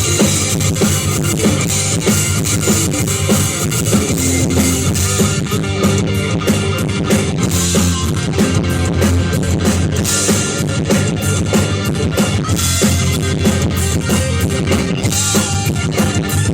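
Live rock band playing loudly: drum kit keeping a steady beat under electric guitar and bass.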